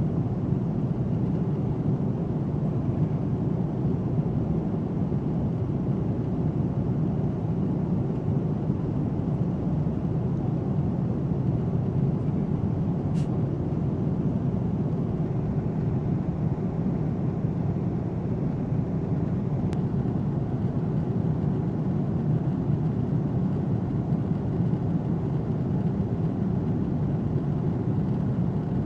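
Steady low rumble of a jet aircraft in flight, unchanging throughout, with two faint clicks.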